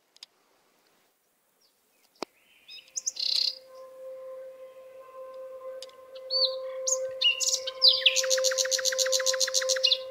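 Small birds chirping, ending in a fast trill of about eight notes a second, over a steady hum that comes in about three seconds in.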